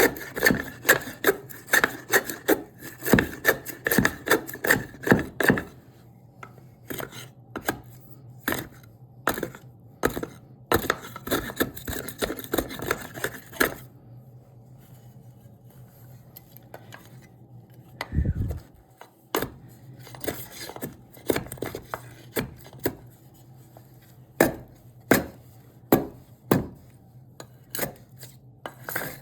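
Hand tool striking cherry wood in sharp knocks, rapid at first and then slower and spaced apart, as the wood is chiselled into shape. A low steady hum comes in about halfway through.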